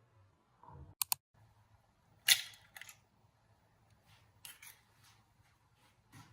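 Small objects being handled: two quick sharp clicks about a second in, then a louder brief rustling sound a little after two seconds, followed by a few softer rustles and clicks.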